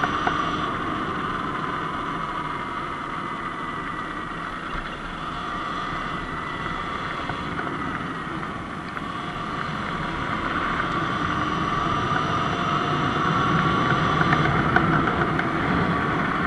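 Surron Light Bee X electric dirt bike riding along, its motor giving a thin whine that slowly shifts in pitch over a rushing wash of wind and tyre noise. The sound grows louder from about ten seconds in.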